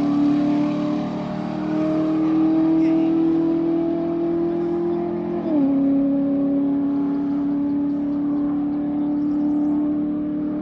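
Race car engine at full throttle on a standing-mile run, heard from a distance. It holds one steady note and drops in pitch once, about five and a half seconds in, as it shifts up.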